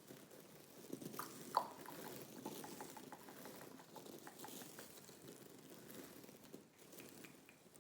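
Close-miked wet mouth sounds of gum chewing: soft, irregular sticky clicks and smacks, with one sharper click about a second and a half in.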